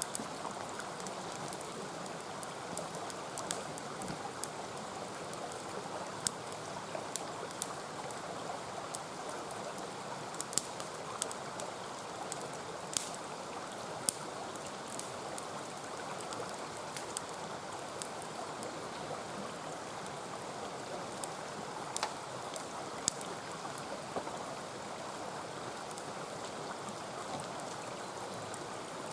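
Wood campfire crackling, with sharp pops scattered irregularly throughout, over the steady rush of a mountain stream.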